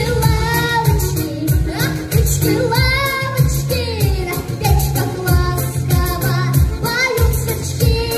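A girl singing a song over a backing track with a steady beat and bass.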